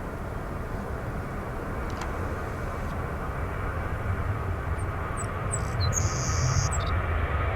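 Jet airliner's engines, a steady rumble that grows slowly louder as the aircraft approaches. A few short high chirps come in the second half.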